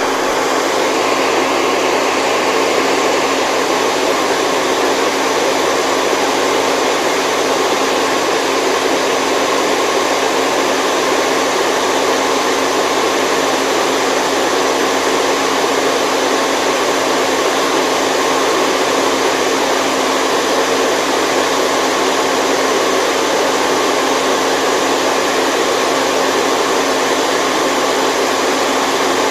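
Steady white noise for baby sleep: an even, unchanging hiss with a faint steady hum underneath.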